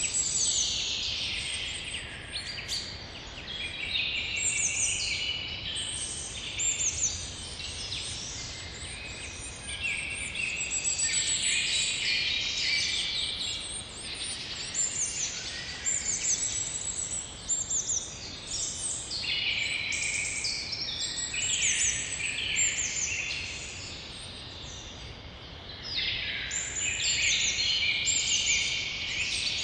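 Morning birdsong: several birds chirping and trilling at once over a faint steady background hiss. The chorus thins briefly for a couple of seconds about three quarters of the way through, then picks up again.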